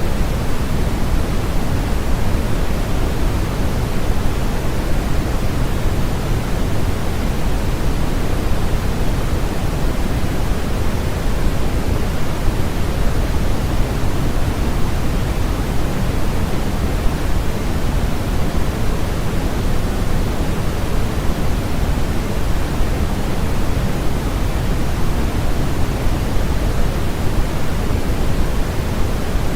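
Steady synthetic noise sold as white noise for sleep, an even rushing hiss that never changes, its energy strongest in the low end and tapering off toward the highs.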